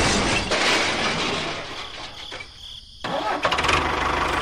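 A motor running steadily. It drops away sharply a little past halfway through and picks up again about a second later.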